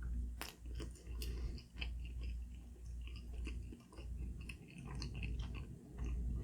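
A person chewing dim sum, with irregular small clicks from the mouth.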